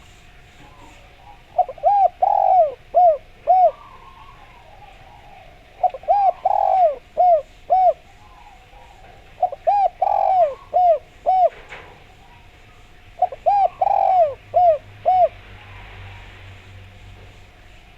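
Spotted dove (derkuku) singing its cooing song: four phrases of five or six rising-and-falling coos each, repeated about every four seconds.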